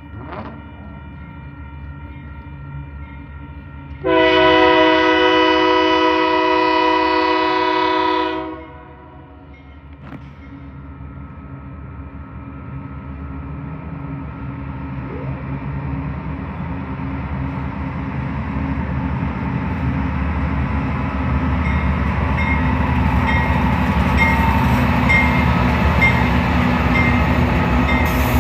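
Diesel freight locomotive's air horn sounding one long blast of about four seconds, then the locomotive's engine and wheels rumbling steadily louder as it approaches and rolls past. A grade-crossing bell dings regularly near the end.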